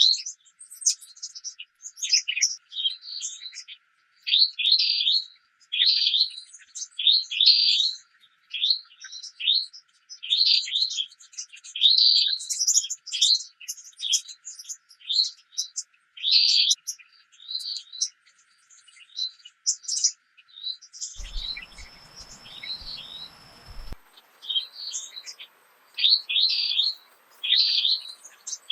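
Small birds chirping in quick, repeated high-pitched calls, several notes a second, with no break.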